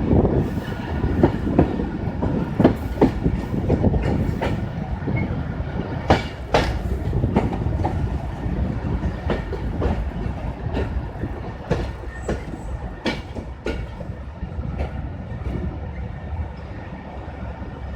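Passenger train coaches rolling past, wheels clattering over the rail joints in irregular clicks over a steady rumble that slowly fades.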